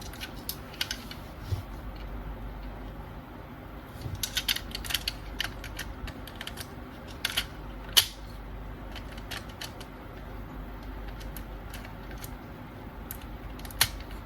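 Hard plastic parts of a DX Jettoras toy robot clicking and snapping as they are handled and fitted together: scattered sharp clicks, with a quick flurry about four seconds in and one loud snap around the middle.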